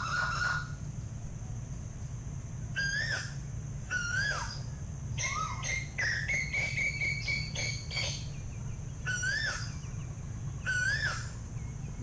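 Bird calls: a clear whistled note that rises and falls, repeated about five times, with a longer held, warbling note in the middle.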